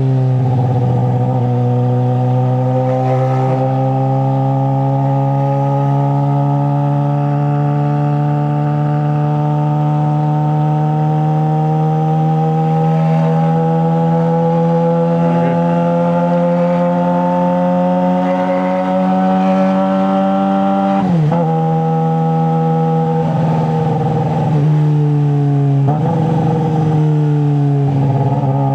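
Straight-piped 2009 Suzuki GSX-R600 inline-four running under steady throttle, its pitch creeping slowly upward as speed builds. About two-thirds of the way through, the pitch drops sharply, and a few brief dips and changes in pitch follow near the end.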